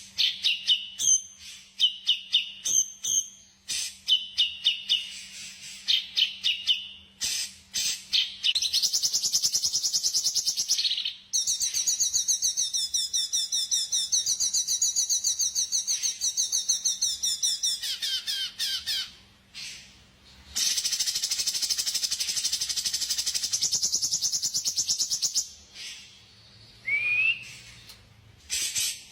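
Songbird calls: quick sharp chips and short down-slurred notes repeated in the first few seconds, then long, rapid, buzzing trills that run for several seconds at a time, once in the middle and again later, over a faint steady hum.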